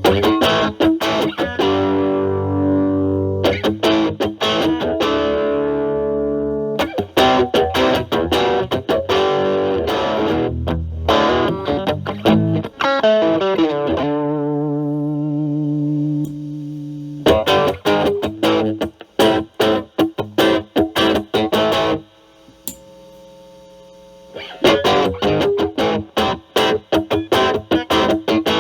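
Electric guitar with single-coil pickups played through a Metal Pedals Rawhide overdrive pedal at low gain, giving a light crunch, into a Marshall Valvestate amp. Ringing chords, then a fast run of picked notes and a held low note, then short choppy chords. After a pause of about two seconds near the end, the chords ring out again.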